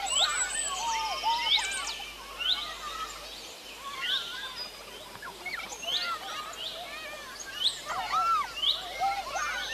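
Birds chirping and calling in quick, repeated short notes over faint outdoor background noise, thinning out in the middle before picking up again.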